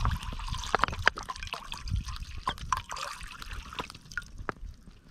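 Water being poured into a camping pot, trickling and splashing with a few light knocks, tapering off about three to four seconds in.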